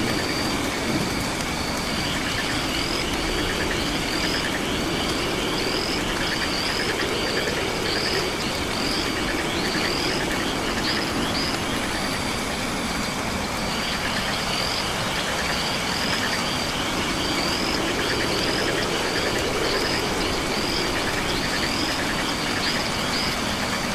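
Night rainforest ambience: a steady hiss with a low rumbling undertone, overlaid by a chorus of frogs and insects. Short upward-sweeping high chirps repeat about once or twice a second over a rapid pulsing trill, which drops out briefly about halfway through.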